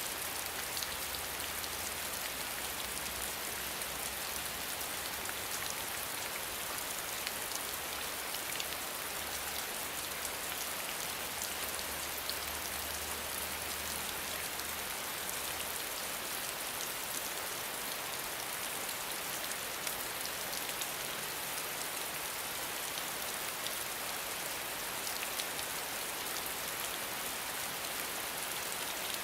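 Steady rain falling: an even hiss peppered with many small ticks of individual drops.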